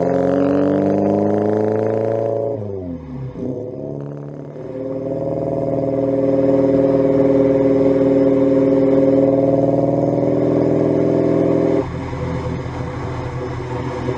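Alfa Romeo Giulia 1300 TI's twin-cam four-cylinder engine running under throttle. The revs fall away sharply about two and a half seconds in, then climb again and hold steady for several seconds. Near the end the note drops abruptly to a lower, rougher running.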